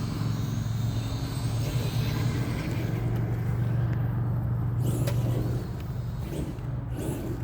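A steady, low motor hum that drops in level about three-quarters of the way through, with a few faint clicks near the end.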